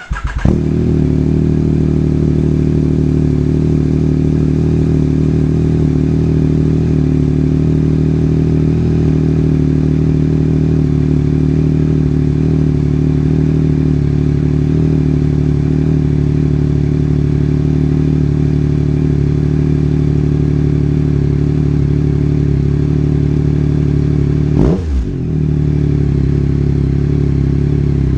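2021 Yamaha MT-09's inline three-cylinder engine, breathing through an Akrapovic Carbon Racing Series exhaust with its baffle removed, fires up and settles into a loud, steady idle. About 25 seconds in, a single quick throttle blip sends the revs up and straight back down to idle.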